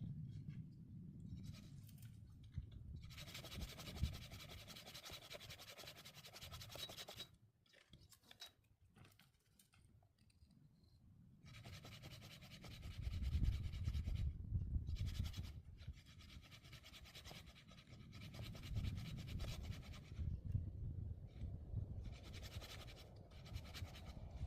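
Hand saw cutting wood in bursts of quick rasping strokes, separated by pauses, played back at double speed. There is low rumbling between the strokes.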